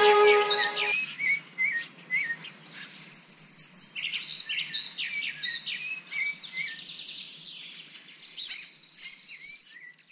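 The last held notes of background music die away about a second in, leaving birds chirping and singing in many quick, pitch-bending calls and trills.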